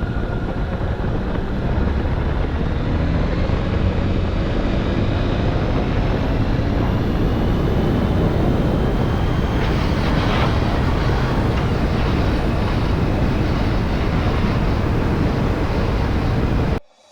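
Honda Gold Wing motorcycle engine running under way, a smooth, quiet hum that sounds like a sewing machine, with its pitch drifting gently as speed changes. It cuts off abruptly near the end.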